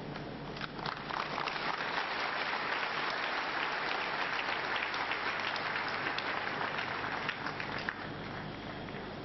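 Congregation applauding: dense clapping that swells up about half a second in and dies away near the end.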